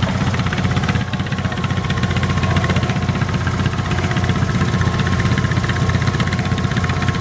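Garden tractor engine running steadily, with a fast, even firing beat and a faint steady whine over it.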